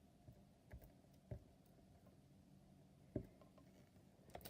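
Near silence, with three faint, soft squelches of clear slime being handled.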